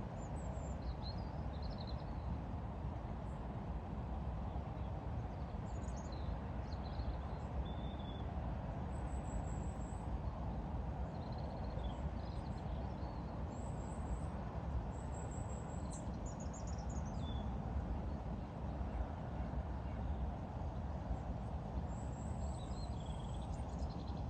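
Small birds chirping and calling on and off, short high notes every second or two, over a steady low background rumble.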